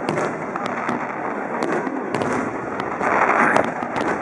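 Fireworks going off: a continuous rumble of bursts with many sharp crackles, swelling louder about three seconds in.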